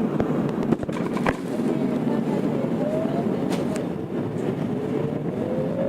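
Tokyo Metro 02 series subway car running in the tunnel, heard from inside the car. Its IGBT inverter and traction motors give a whine that rises in pitch as the train gathers speed over the steady rumble of the wheels on the rails. A few sharp clicks come in the first second or so.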